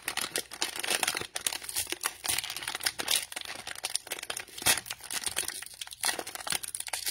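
Cello-pack packaging of a Mosaic basketball card box being ripped open: plastic wrap crinkling and tearing in a dense, irregular run of crackles.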